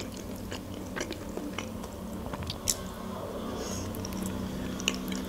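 Close-miked chewing of a mouthful of mayonnaise salad, with small wet mouth clicks throughout and one sharper click about two and a half seconds in, over a faint steady hum.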